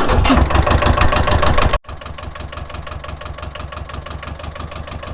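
Tractor engine running, loud for a little under two seconds, then dropping abruptly to a steadier, quieter run with an even, fast beat.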